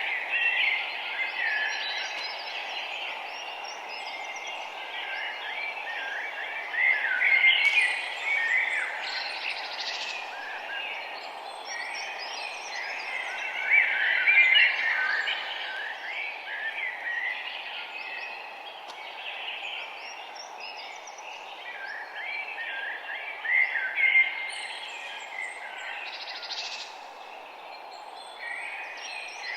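A chorus of many small birds chirping and singing all at once, with louder flurries now and then, over a steady background hiss.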